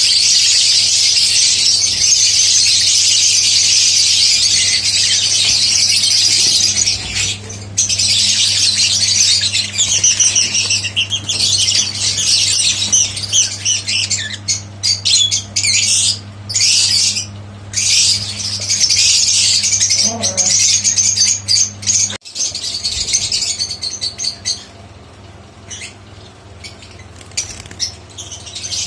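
Small pet birds chirping and chattering together in a dense, high-pitched chorus. It is unbroken at first, then breaks into shorter runs of chirps with gaps, and grows much quieter near the end.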